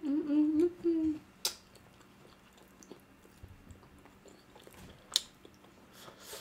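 A short, pleased "mmm" hum, then close-miked chewing and lip smacks of someone eating chicken with her hands. A few sharp mouth clicks stand out, the loudest about five seconds in.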